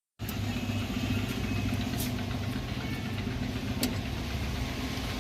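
Piaggio Ape three-wheeler's engine idling steadily, with a few faint clicks over the running.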